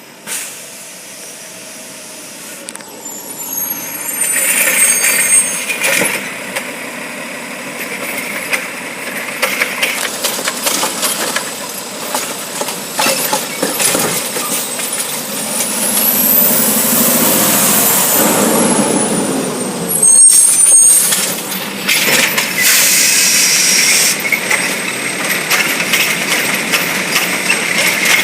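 Garbage truck at work collecting curbside trash: its engine running and revving, with air-brake hisses and a mechanical whine that rises and then falls near the middle.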